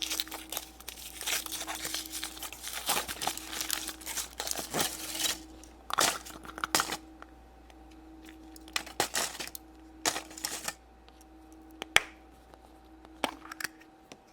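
The foil wrapper of a chocolate surprise egg being crinkled and torn off: dense crinkling for about the first five seconds, then scattered short rustles and a sharp click near the end as the egg is opened.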